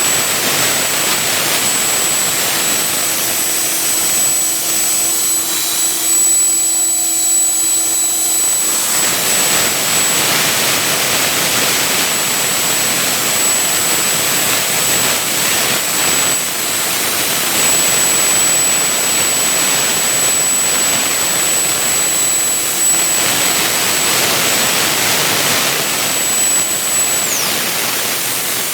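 Vertical 3-axis CNC milling machine running, a loud steady rushing noise with a thin high whine that drops away near the end.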